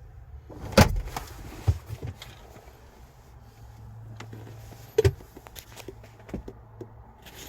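Scattered clicks and knocks of a car's interior being handled, the sharpest about a second in and another near five seconds, with a faint low steady hum from about four seconds on.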